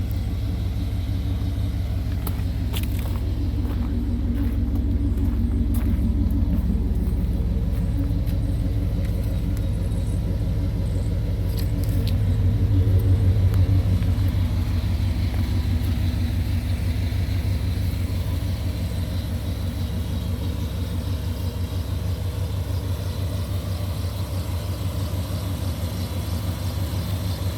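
1990 Chevrolet Sport pickup truck's engine idling steadily: a low, even rumble that swells slightly about halfway through.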